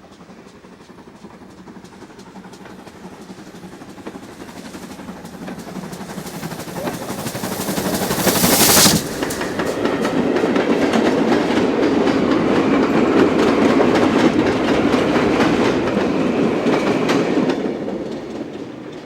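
GWR 3850, a 2-8-0 steam locomotive, approaches and passes with its train, growing steadily louder to a loud rush as the engine draws level about nine seconds in. The coaches then rumble past, clattering over the rail joints, and fade away near the end.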